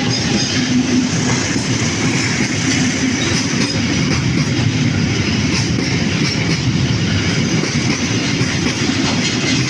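A train passing close by, its wheels running on the rails with a loud, steady rumble.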